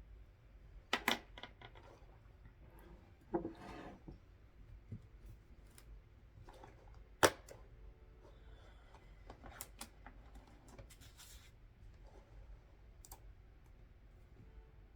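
Desk handling sounds: scattered sharp clicks and taps, with a short paper rustle about three seconds in. The loudest is a single sharp click about seven seconds in.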